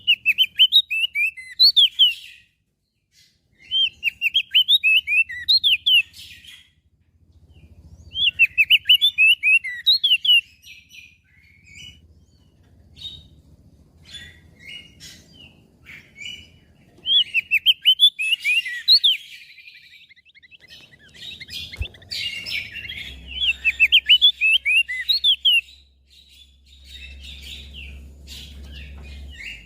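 Crested white-eye singing: fast chattering phrases of quick sweeping notes, each burst about two seconds long and separated by short pauses, with a denser run of song in the second half.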